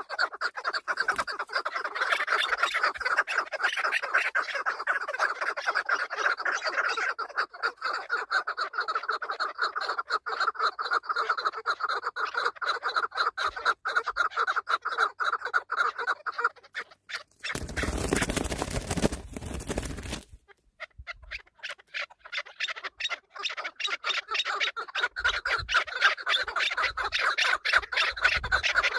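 Chukar partridges calling: a fast, continuous run of clucking calls that fades off and builds again. A loud rush of noise, like wind on the microphone or handling, covers them for about three seconds a little after halfway.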